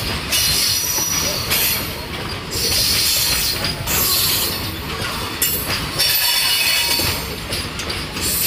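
Loaded BCNA covered freight wagons rolling past close by: steady wheel-on-rail rumble and clatter, with a high hissing wheel squeal that swells and fades every second or so.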